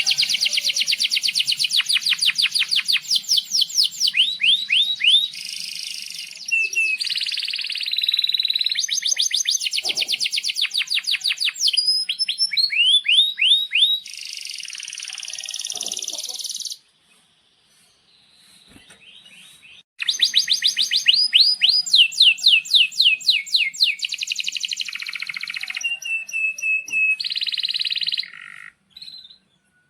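Male domestic canary singing long, fast rolling trills of rapidly repeated high notes, with sweeping whistled notes between the rolls. The song stops for about three seconds past the middle, then resumes with more rapid rolls.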